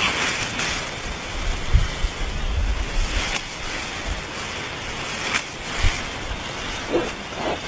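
Wind buffeting the microphone: a steady rushing hiss with irregular low gusty thumps.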